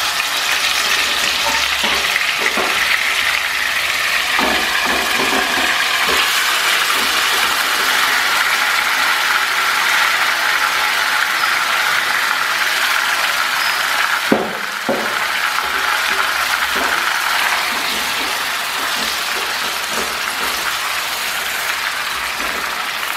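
Marinated chicken sizzling in hot oil in a pot: a steady frying hiss, with a few light knocks of the spatula and one sharper knock about two-thirds of the way through.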